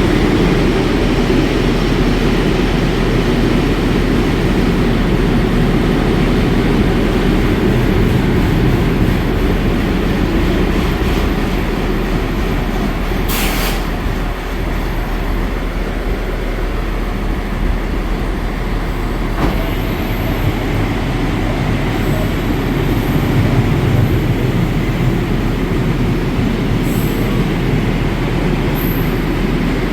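Train moving along the station tracks with a loud, steady rumble of wheels on rails. There is one sharp click about halfway through and a few faint, brief high squeals near the end.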